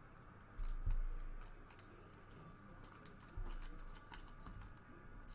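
Trading cards being handled at a table: light rustling and small clicks, with two dull low thumps, one about a second in and another around three and a half seconds.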